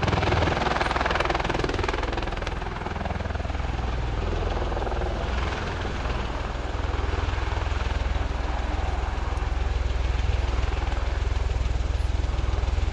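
Bell-Boeing CV-22B Osprey tilt-rotor in flight, a continuous low thrum from its two large proprotors over the noise of its twin turboshaft engines. The sound eases slightly a few seconds in, then builds again.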